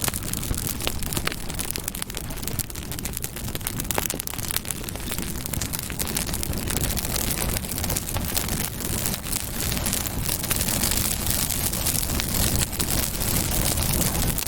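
Campfire burning: a steady rush of flame with a dense run of small sharp crackles throughout.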